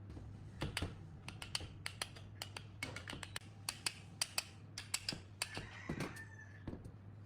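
Small metal parts being handled: a quick, irregular run of light clicks and taps, with a brief scrape about six seconds in, over a steady low hum.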